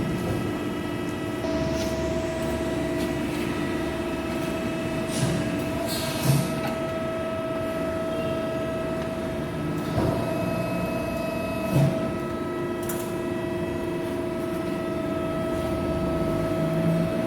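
Hydraulic press brake (a 110-ton, 4-metre plate bending machine) running: a steady pump-and-motor hum with a fixed whine that strengthens about a second and a half in, and a few short knocks from the machine.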